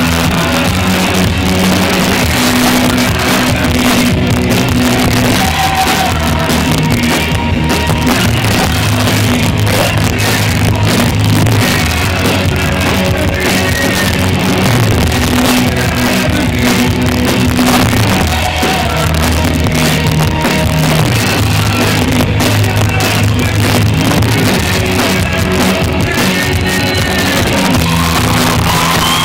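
Live rock music played loud and steady, with guitar and drum kit over sustained bass notes.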